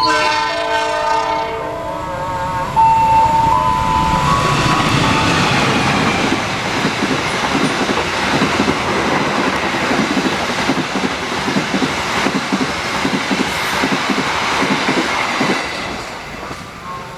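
Passenger train passing close behind a CC 206 diesel-electric locomotive: a swelling rush of engine and wheel noise, then a steady rhythmic clatter of the coaches' wheels over the rail joints, easing near the end.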